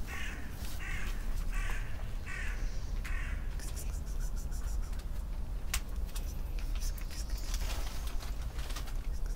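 A bird gives five harsh, cawing calls in quick succession, about one and a half a second, then falls quiet; a single sharp click follows a few seconds later.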